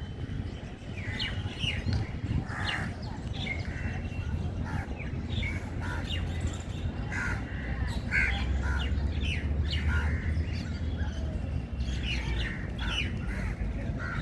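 Several birds chirping and calling, many short calls overlapping one another throughout, over a steady low rumble.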